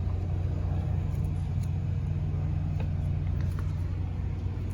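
A steady low motor hum with a constant pitch, and a few faint small ticks over it.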